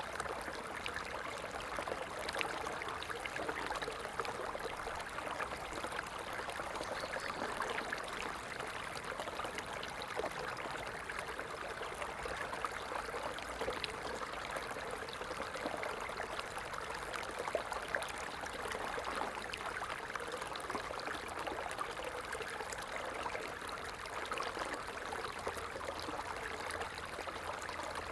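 Stream water flowing steadily, an even rush of running water with fine trickling detail.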